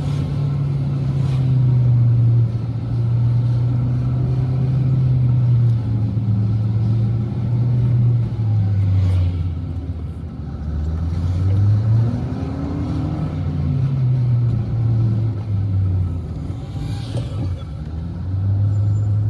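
Car engine heard from inside the cabin while driving slowly. Its low hum holds steady at first, then its pitch drops and rises a few times as the car slows and picks up speed again.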